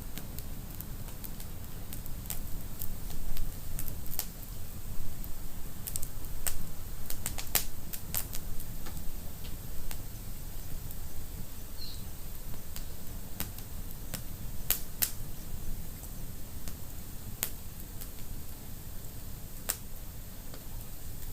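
Wood fire burning in a fireplace: irregular sharp crackles and pops, sometimes several in quick succession, over a low rumble of flames.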